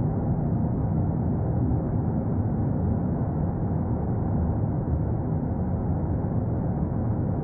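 A steady, low rumbling noise with no pitch, even in level throughout and dull, with nothing in the upper range.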